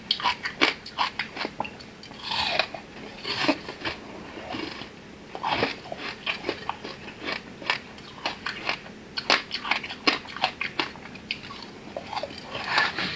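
Crunching and chewing of a hard flower-shaped sweet: a rapid, irregular run of sharp crunches, with a few denser, louder stretches.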